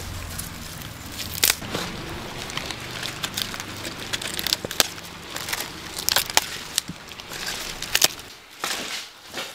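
Irregular sharp clicks and crackles over a low steady hum.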